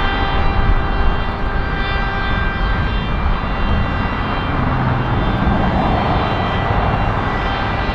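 Jet airliner engines running: a steady, loud roar with several high steady whining tones over it.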